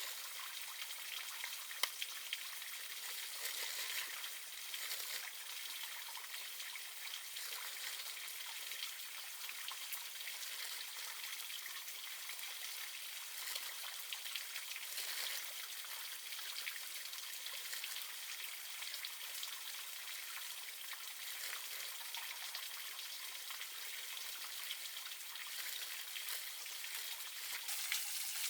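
Steady water sound: an even, fine patter and trickle with small scattered ticks.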